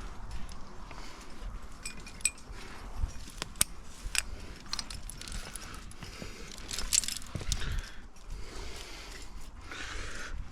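Metal trad-climbing gear, carabiners and protection racked on a harness, clinking and jingling in scattered short bursts as the climber moves, over a low rumble on the microphone.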